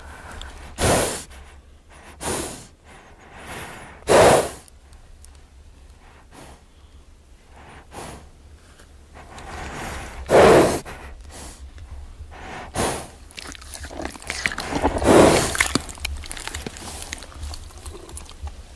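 A horse snorting: about six short, noisy blasts of breath through the nostrils at uneven intervals, with quieter breathing between them and a longer, rougher stretch near the end.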